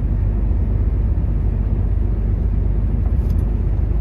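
Volvo truck's diesel engine and tyres droning steadily inside the cab while cruising on the highway, with a couple of faint clicks about three seconds in.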